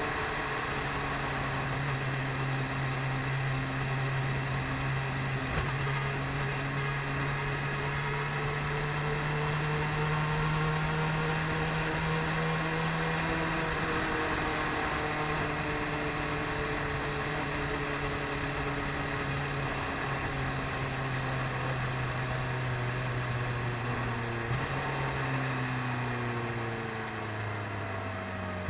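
BMW S1000RR's inline-four engine running at a steady cruise, its pitch holding level for most of the stretch and then falling in the last few seconds as the throttle eases off, over a steady rush of wind and road noise.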